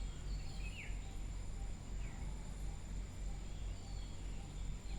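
Steady background hum and hiss of room tone, with a few faint short chirps about one and two seconds in.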